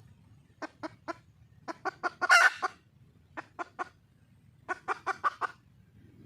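A red junglefowl hen clucking in short, sharp runs: three clucks, a quicker run rising into one louder, drawn-out note, then three more and a final run of five. The call is offered as a wild hen calling for a male.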